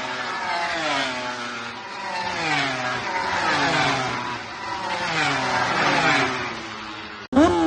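Racing motorcycle engines at the track, their pitch falling in repeated steps as the bikes brake and downshift, one after another. The sound cuts off abruptly near the end.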